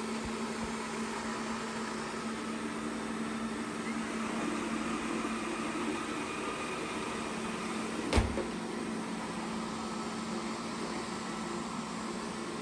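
Xiaomi Mi Robot Vacuum-Mop Essential running while it cleans: the steady whir of its suction fan and brushes with a constant hum. A single sharp knock about eight seconds in.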